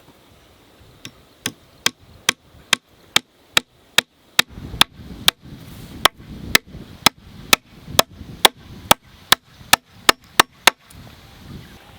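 Repeated sharp blows of a hand tool in a steady rhythm, about two strikes a second, some twenty in a row, stopping shortly before the end.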